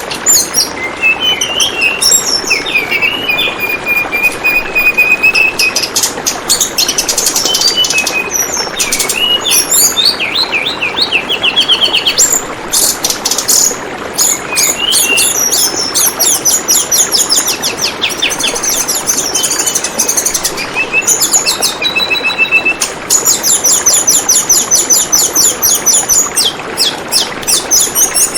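Tledekan bambu songbird singing over gurgling flowing water: high whistled notes and fast, repeated chattering trills, many in quick runs, over a steady rush of water.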